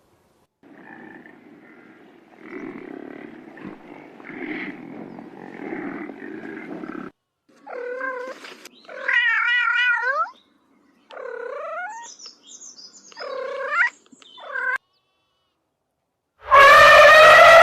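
Domestic cat meowing several times in wavering, drawn-out calls, after a few seconds of a low, rough, rumbling sound. Near the end a much louder, drawn-out animal call begins, its pitch sliding down.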